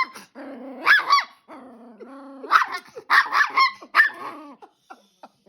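A dog barking and growling in repeated bursts at someone coming close to its owner, a sign of a dog guarding its person.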